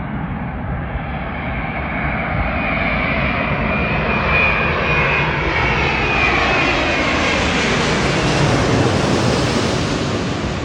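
Boeing jet airliner's engines as it flies past, a rushing roar that grows steadily louder, with a high whine that slides slowly down in pitch partway through.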